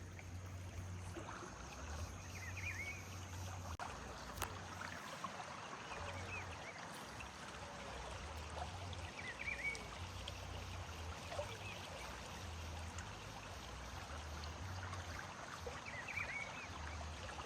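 River water flowing steadily over rocks, a full, muddy current, with a low rumble underneath. A few short, faint chirps come through three times.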